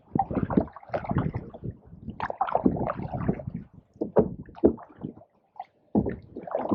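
Canoe paddling: paddles dipping and water splashing and gurgling against the hull in irregular bursts and knocks, pausing briefly near the end.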